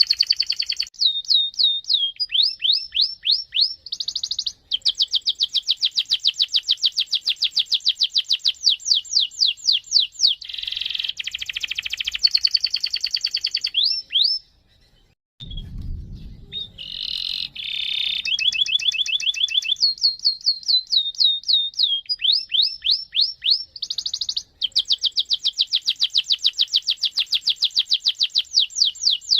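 Domestic canary singing long rolling phrases: very rapid trills of repeated notes, some falling sweeps, each phrase running several seconds. There is a short break about halfway through, with a brief low thump.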